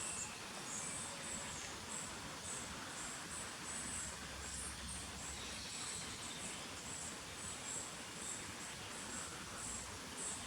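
High-pitched insect chirping in short, even pulses about twice a second, over a steady outdoor background hiss.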